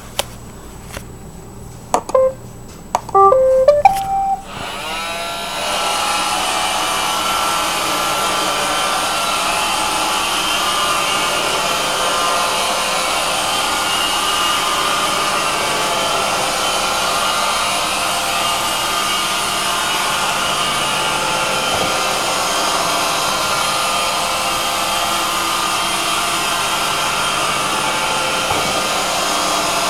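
iRobot Roomba 560 robot vacuum starting a cleaning run: a couple of clicks and a short tune of beeps at different pitches, then its motors spin up with a rising whine about four seconds in and run steadily.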